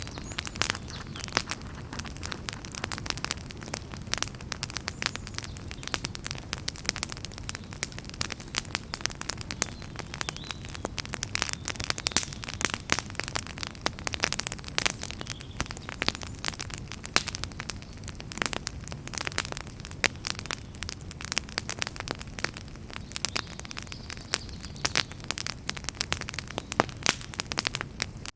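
Wood campfire burning and crackling steadily: a dense run of irregular sharp pops and snaps from the burning firewood over a low rumble of the flames.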